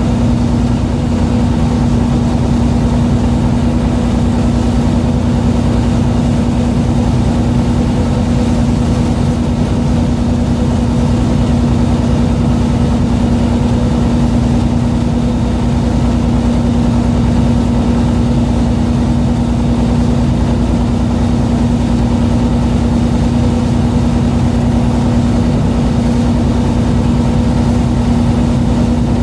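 A fishing boat's engine running steadily, a constant hum with a low drone.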